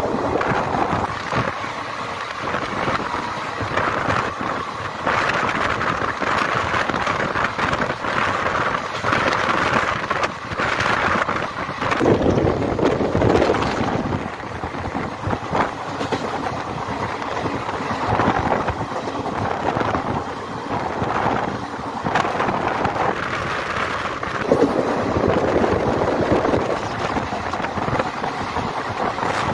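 ICF passenger coach running at speed: a steady rumble of wheels on the track with frequent knocks and clatter, rising and falling in loudness every few seconds.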